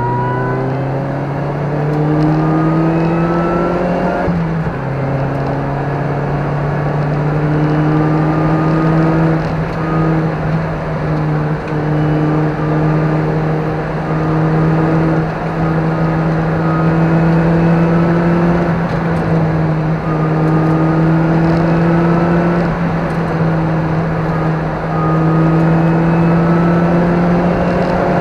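Car engine heard from inside the cabin, pulling at speed. Its note drops once about four seconds in, then climbs slowly and steadily for the rest of the time, over a haze of tyre and wind noise.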